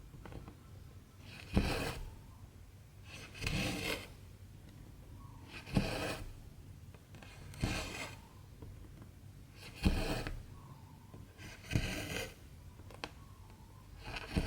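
Cotton embroidery thread being pulled through 14-count cross-stitch fabric, a short rasping pull with a sharp start about every two seconds, seven in all.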